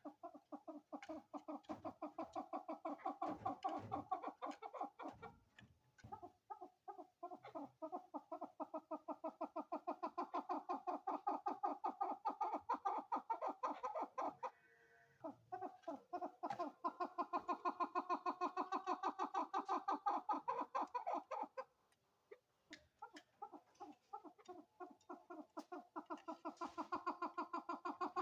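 Female chukar partridge calling: long runs of rapid, evenly repeated clucking notes, about five a second, in bouts of several seconds broken by short pauses.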